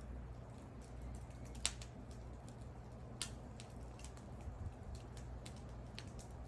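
Wood fire crackling: scattered small pops from the burning wood, with two louder snaps about a second and a half apart, over a low steady rumble.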